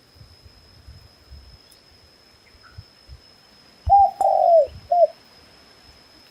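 Dove cooing: three coos about a second apart, short, long, short, the middle one the longest. A faint, steady, high, thin tone runs under it.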